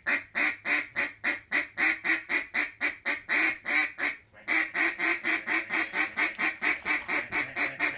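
Duck call blown in a long run of rapid, even quacks, about four to five a second, with a short break after about four seconds before a slightly faster run resumes. The calling is meant to bring circling ducks into shooting range.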